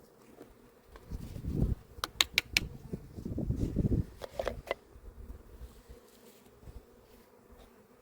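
Honeybees buzzing as a faint steady hum, with low rumbling handling noise and a few sharp clicks: three quick ones about two seconds in and two more around four and a half seconds in.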